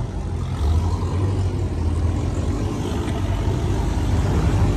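A car engine running with a deep, steady rumble as a car rolls up at low speed.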